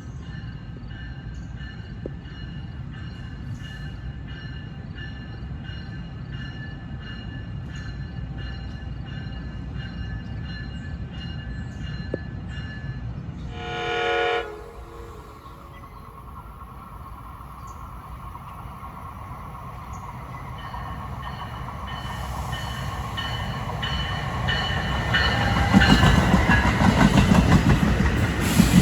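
Trains on the Northeast Corridor main line. A train rolls by with a steady rumble and faint rhythmic wheel clicks, then sounds one short horn blast of about a second, about 14 s in. After that a train approaches, its rumble and wheel clatter growing louder until it is passing close near the end.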